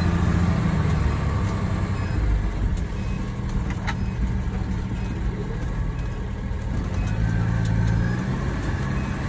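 Fire engine's motor running steadily, heard from inside the cab, with a single sharp click about four seconds in. The engine note grows louder and rises slightly near the end.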